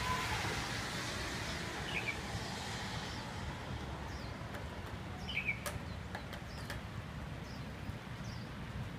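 Small birds chirping now and then over a steady low rumble of outdoor background noise, with a couple of faint clicks.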